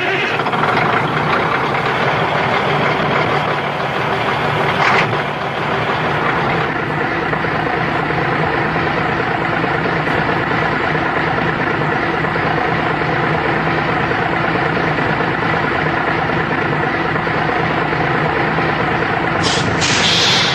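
Semi truck's diesel engine idling steadily, just after starting. A brief burst about five seconds in and a short hiss near the end.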